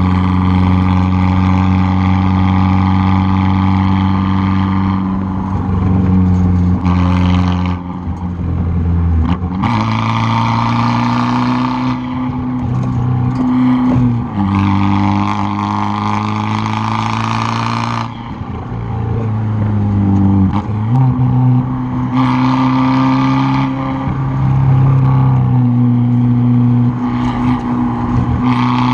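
Straight-piped 2013 Fiat 500 Abarth's turbocharged 1.4-litre four-cylinder exhaust, heard close up, pulling hard up and down the rev range. The note rises and falls several times with gear changes and repeated bursts of throttle on and off.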